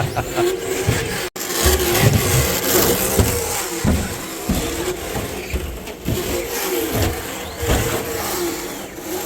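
Radio-controlled cars running and revving on an indoor race track, with a sudden break about a second in.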